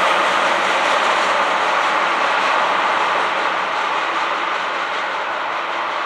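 Freight train of tank cars rolling away on the rails, a steady wheel-on-rail rolling noise that slowly fades as the last cars recede.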